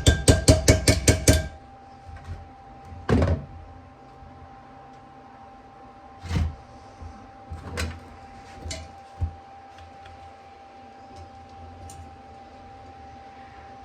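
Fast, even metallic tapping with a ringing tone, about five strikes a second, that stops a second or so in. It is followed by a few scattered knocks and clunks of metal parts being handled at the workbench over a faint steady hum.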